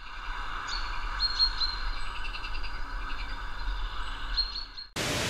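Birds chirping, short high calls over a steady background hiss and low rumble. The sound cuts off abruptly near the end and gives way to a steady hiss.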